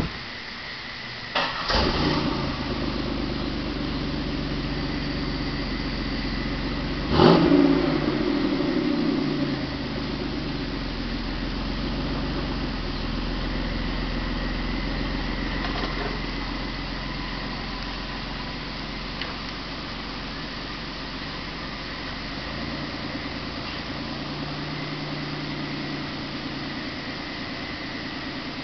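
Buick Park Avenue's V6 engine started about seven seconds in, flaring up and settling to a steady idle. A sharp thump comes about a second and a half in, before the start.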